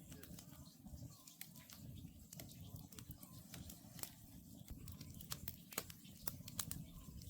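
Wood campfire crackling, with irregular sharp pops over a low steady rumble of the burning logs. An Oriental scops owl calls faintly, a short note about every two seconds.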